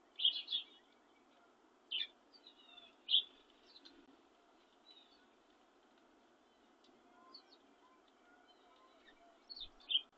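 Small birds chirping: short, high chirps, a quick cluster just after the start, single ones about two and three seconds in and a pair near the end, over a steady low background hiss.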